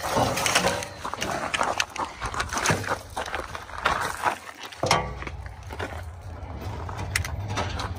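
Rustling, scraping and knocks of hand work on wiring and parts. From about five seconds in, a steady low engine hum starts and keeps going, with a few sharp clicks over it.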